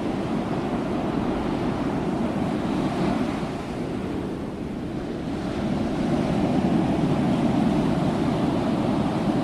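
Ocean waves breaking and washing on the shore in a steady rush, easing off briefly about four seconds in and then swelling again with the next wave.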